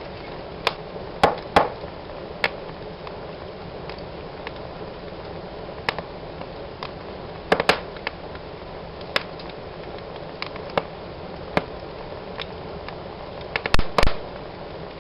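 Wood fire burning in a fireplace: a steady hiss with irregular sharp crackles and pops, the loudest few bunched together near the end.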